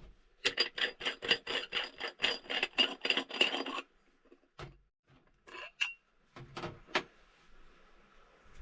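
Rhythmic scraping or rubbing strokes, about four a second for some three seconds, followed by a few separate knocks.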